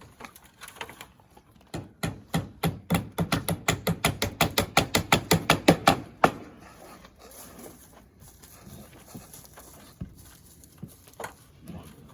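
A fast run of hammer strikes, about five a second, getting louder for several seconds and then stopping, followed by a few scattered knocks.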